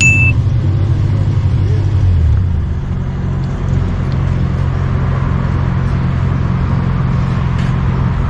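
A car engine idling steadily close by, with a short high beep at the very start.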